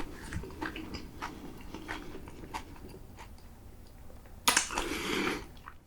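A person chewing homemade fried al pastor taquitos close to the microphone, with soft mouth noise and small wet clicks. About four and a half seconds in comes a louder, noisier sound lasting about a second.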